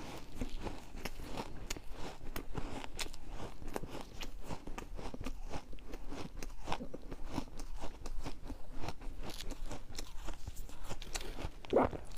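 Refrozen ice being bitten and chewed: an irregular, continuous run of sharp cracks and crackles, with one louder crunch near the end.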